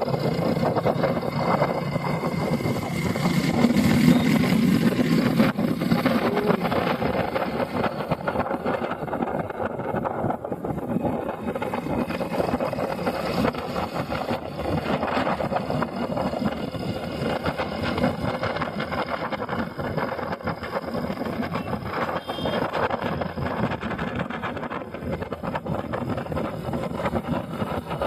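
Motorcycle engine running steadily while riding, with road noise, a little louder about four seconds in.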